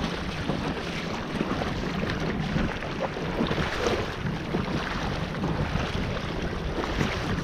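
Steady wind noise on the microphone with waves lapping and splashing against the hull of a Sea Eagle 300x inflatable kayak under sail in choppy water.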